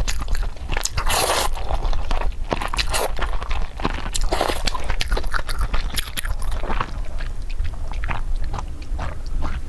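Close-miked eating: irregular wet mouth clicks, bites and crunchy chewing, with a couple of longer smacking smears, over a steady low hum.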